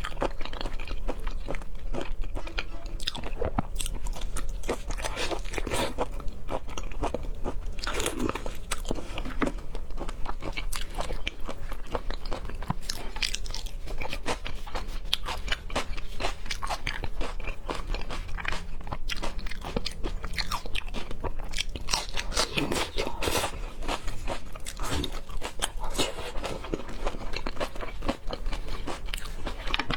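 A person chewing and biting seafood: crunchy bites and a dense run of small, irregular chewing clicks.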